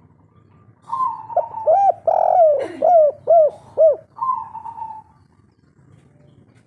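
A spotted dove (tekukur) giving one song phrase of the 'kuk 3' type: a run of short, rising-and-falling coos around a louder, longer coo, ending in one drawn-out coo about four seconds in.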